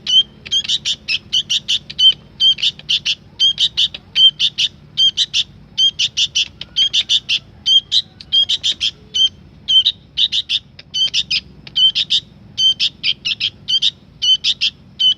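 Sooty-headed bulbul (kutilang) calling continuously: short runs of quick, bright chirps, repeated about twice a second.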